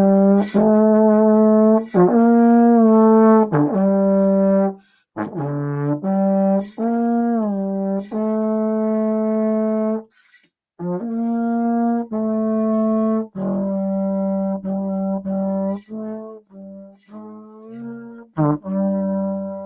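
A trombone playing a slow, legato melody of sustained notes, some sliding into the next, in two phrases with a break for a breath about ten seconds in.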